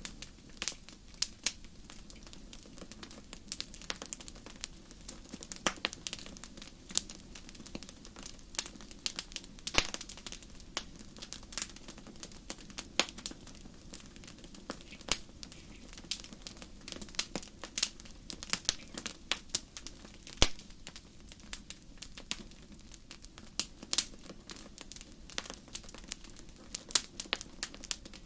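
Fire crackling: irregular sharp pops and snaps, some much louder than others, over a low steady rumble of the flames.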